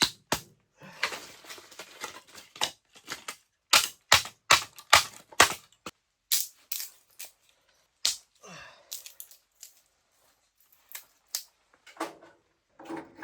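Laying a fire in a wood stove: kindling and fire starters being handled, making an irregular run of sharp snaps and clicks, with a stretch of crackly rustling about a second in.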